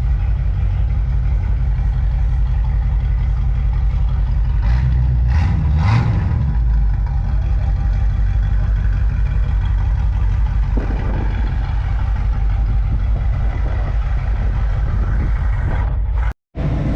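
Classic car's engine idling through loud exhaust pipes, with a brief rev about five seconds in.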